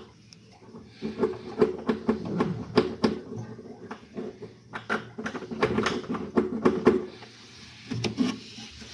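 Irregular knocks and clattering, as of hard objects being handled, mostly between about one and seven seconds in.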